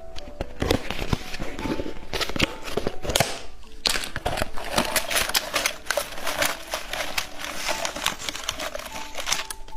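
Plastic snack packaging of malted-milk chocolate balls crinkling and crackling as it is torn open and handled, a dense run of sharp irregular crackles.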